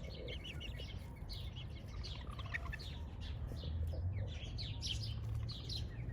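Many small birds chirping in quick, overlapping short high notes, over a steady low rumble.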